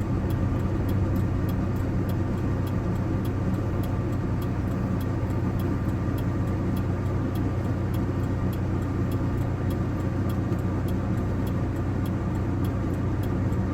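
GAZ-2790's ZMZ-405 engine running under way, with a regular light ticking of about three a second over the steady engine note. The owner takes this knock for a fault in the timing chain drive, upper or lower chain.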